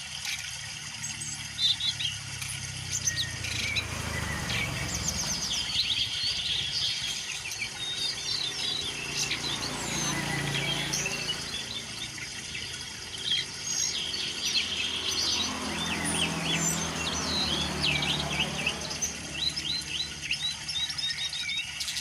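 Songbirds calling: a busy run of short, quick chirps and whistles, with a low rumble swelling and fading underneath a few times.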